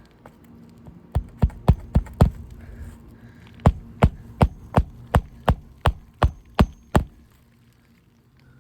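Hammer driving a roofing nail through an asphalt shingle: a quick run of about five strikes, a short pause, then about ten more evenly spaced blows. The nailing is done under a barely lifted shingle tab.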